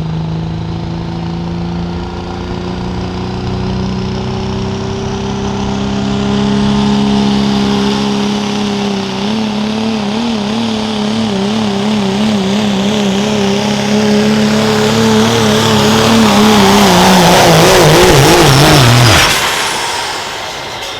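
Turbo-diesel pickup engine at full throttle, pulling a sled, its pitch climbing slowly. About halfway through the pitch starts to waver rapidly. Near the end the pitch sinks as the engine bogs down under the sled's load, then it cuts off sharply about two seconds before the end.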